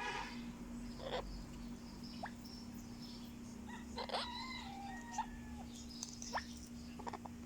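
Parrot eating carrot: separate sharp crunching clicks every second or two as it bites, with a short pitched call at the start and a soft gliding vocal sound around the middle. A steady low hum sits underneath.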